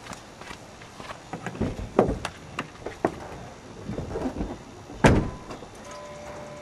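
Car door being handled: a series of clicks and knocks, then a heavy door slam about five seconds in, followed by a steady electronic tone near the end.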